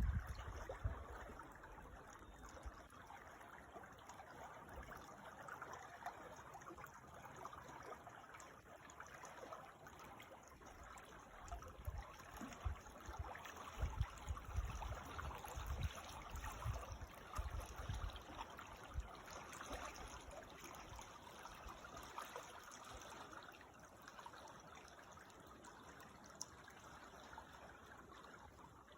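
Creek water trickling steadily, a faint even rush. A low rumble comes and goes in the middle stretch.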